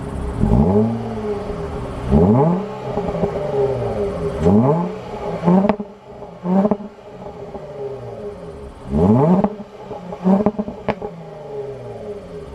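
The 2017 Jaguar F-PACE's 3.0-litre supercharged V6 idling and being revved in quick throttle blips, about seven times: the pitch climbs and falls back to idle each time, some blips longer and some short and sharp.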